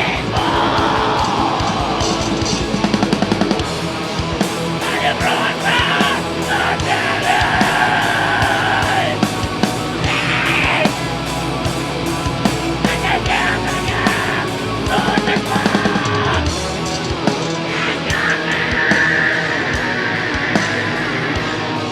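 Heavy metal band playing live at full volume: distorted guitars and drums, with shouted, harsh vocals. There are passages of very fast drumming about three seconds in and again around fifteen seconds.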